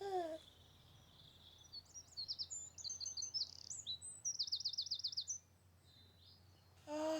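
Songbird singing a string of high warbled phrases ending in a fast trill. A short, louder falling call comes at the start and again near the end.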